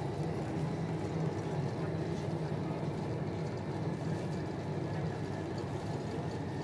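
Steady low rumble of a high-speed tilting train running at speed, heard inside the passenger carriage.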